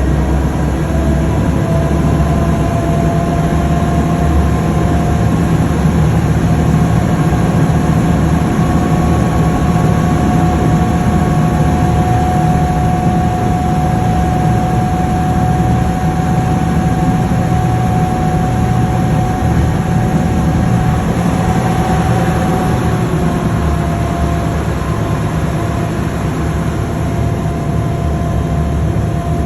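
A tour vessel's engine running steadily underway: a heavy low drone with a steady whine above it that dips slightly in pitch about three-quarters of the way through.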